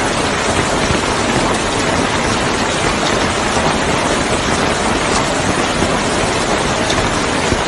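Hail pelting down in a storm, a loud, steady, dense hiss of stones striking surfaces.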